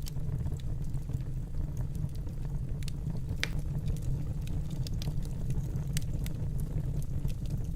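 Wood fire burning in a fireplace: a steady low rumble of flames with scattered sharp crackles and pops, one louder pop about three and a half seconds in.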